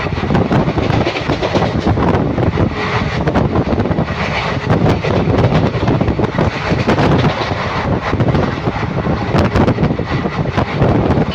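Indian Railways train running along the track: a loud, steady rumble of wheels on rails, with a rapid scatter of clicks and rattles throughout.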